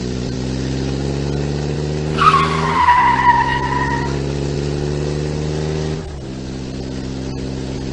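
Car engine sound effect running steadily, with a tyre squeal about two seconds in that falls slightly in pitch and lasts about two seconds. The engine note drops about six seconds in.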